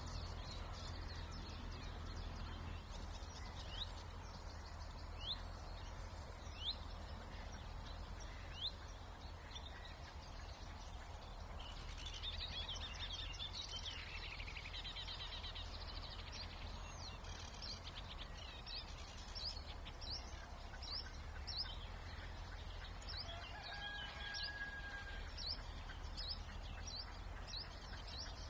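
Several songbirds singing in a spring marsh reserve, with short falling notes repeated about once a second at first, a denser burst of song around the middle, and quicker runs of notes toward the end. A steady low rumble of background noise lies underneath.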